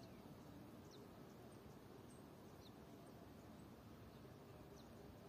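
Near silence with a few faint, short high chirps from distant birds, scattered irregularly.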